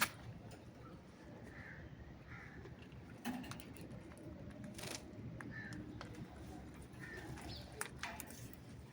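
Parrots making short, soft calls about once a second, with a few sharp clicks or knocks in between.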